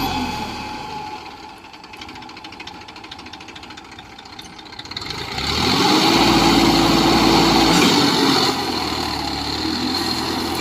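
Tractor engine running with a fast, even ticking, then revving up about halfway through, holding for a couple of seconds and dropping back to a steady run.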